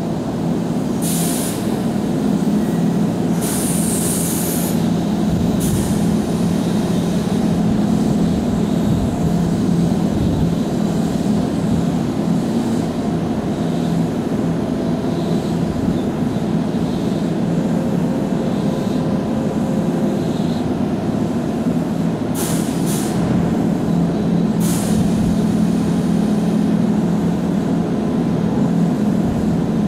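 Keihan Railway electric train running at a station platform: a steady rumble of wheels and motors, with several short hisses of air.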